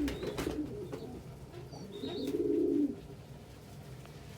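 Domestic pigeon cooing: one low, rolling coo lasting about a second in the middle, with the end of another at the start and a few soft taps just after it.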